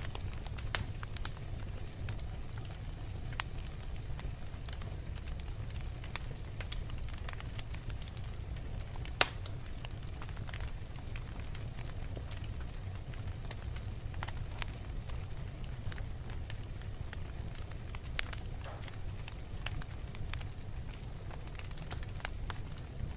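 Wood logs burning in a fireplace: a steady low rumble of flame with scattered crackles and snaps. One much louder sharp pop comes about nine seconds in.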